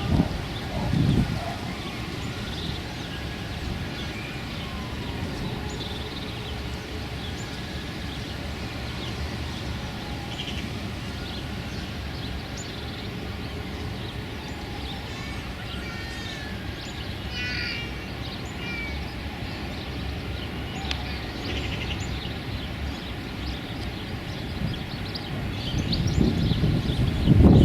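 Outdoor wind noise as a steady low rumble, with scattered small-bird calls and chirps throughout and a quick run of chirps a little past halfway. Loud gusts of wind buffet the microphone about a second in and again near the end.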